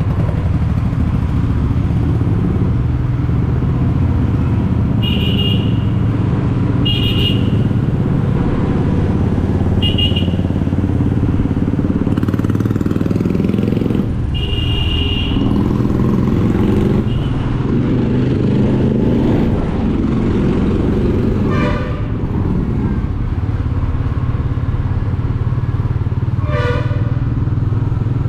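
Royal Enfield Meteor 350's single-cylinder engine running steadily while the bike cruises. Vehicle horns honk briefly four times in the first half and twice more, lower in pitch, in the second half.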